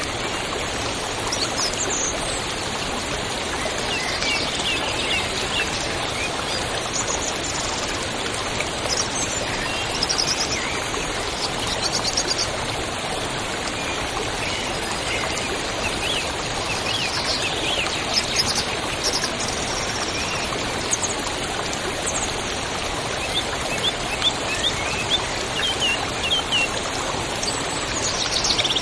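A river or stream flowing steadily, with small birds calling and trilling now and then over the water.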